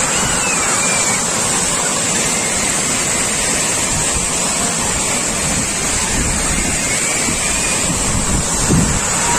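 Water pouring over an overflowing dam: a steady, loud rush of water, with wind buffeting the microphone.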